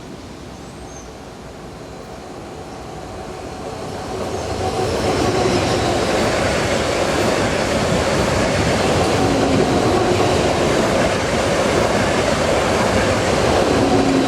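A train approaching, growing louder over the first few seconds, then passing steadily with the noise of its wheels on the rails.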